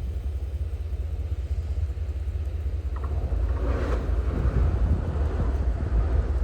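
Blizzard wind buffeting the microphone as a heavy, steady low rumble. A small click comes about three seconds in, and a broader hiss then swells and holds, which could be a stronger gust or a vehicle passing.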